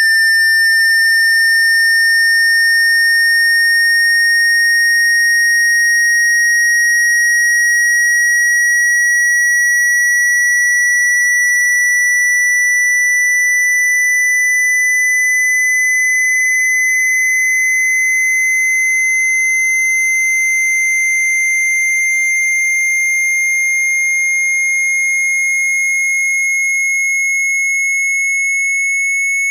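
Generated speaker-cleaning tone: a single loud pure electronic tone, high-pitched and gliding very slowly upward, played to shake water and dust out of a phone speaker.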